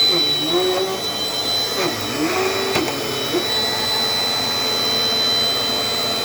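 Dirt Devil Dynamite Plus canister vacuum running steadily, its motor giving a constant high whine over the rush of suction air.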